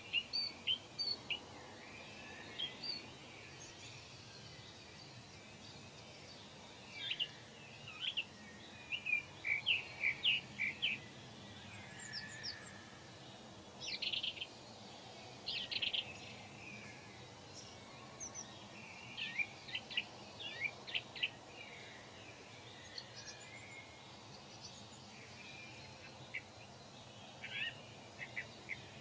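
Small birds chirping in short, scattered bursts of quick high chirps over a steady faint low background noise.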